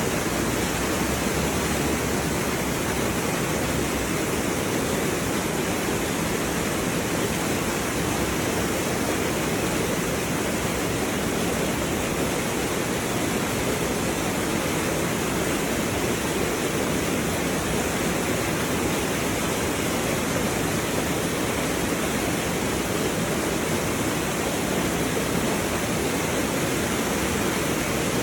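Steady, unbroken rushing noise that stays at the same level throughout.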